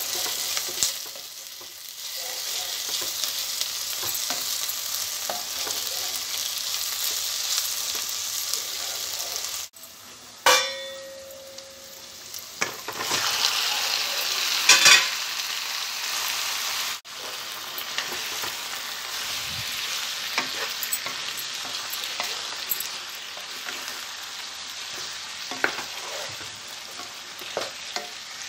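Chopped onions, green chillies and ginger-garlic paste sizzling in hot oil in a non-stick pan, stirred with a wooden spoon that scrapes and taps the pan. About ten seconds in there is a short ringing clang, and soon after the sizzle grows louder as raw chicken pieces go into the pan and are stirred in.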